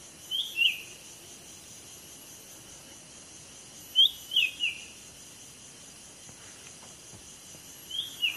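A decoy bird calling in short phrases of two or three quick falling chirps, repeated about every four seconds, over a steady high insect buzz.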